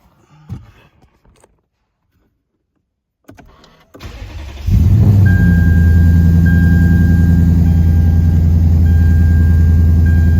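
Lexus IS F's 5.0-litre V8 with aftermarket headers and exhaust being cranked and catching about four seconds in, then running loud and steady at a raised cold-start idle.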